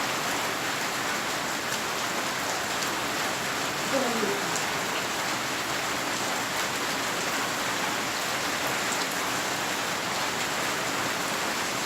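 Steady rain falling, an even hiss of rain on surfaces. There is a short falling tone about four seconds in.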